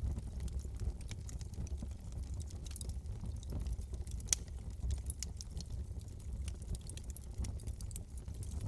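Wood fire in a fireplace crackling, scattered sharp pops and snaps over a low steady rumble, with one louder pop a little past the middle.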